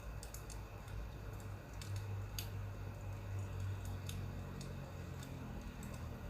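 Crackling wood fire with scattered sharp pops over a steady low rumble.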